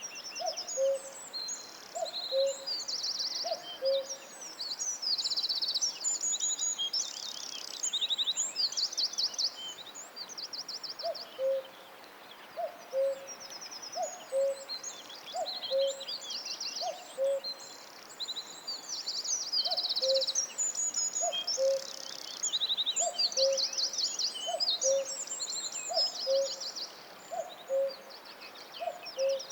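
Forest chorus of songbirds singing fast trills and warbles, with a lower two-note call, a higher note then a lower one, repeated about once a second by another bird, pausing briefly twice.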